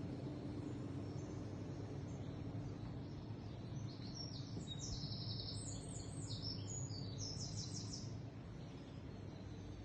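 A bird chirping a rapid series of short high notes for about four seconds in the middle, over a steady low hum.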